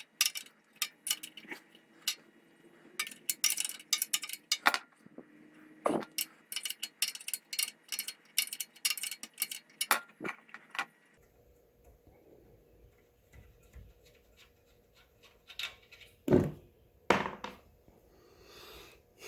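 Hand tools clicking and clinking against metal in quick irregular runs, as bolts on the pump's frame are worked loose. It goes quieter about halfway through, with two loud knocks near the end.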